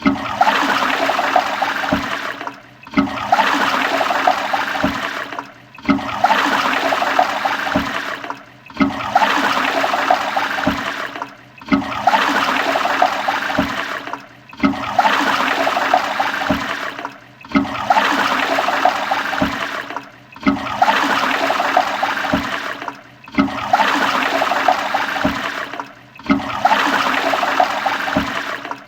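Toilet flushing: a short rush of water, repeated over and over about every three seconds in identical bursts, each cutting off abruptly before the next begins.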